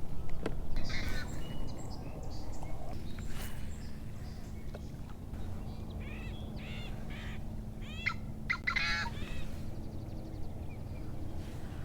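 Wild birds calling in short bursts, the loudest run of quick repeated calls about eight to nine seconds in, over a low steady hum.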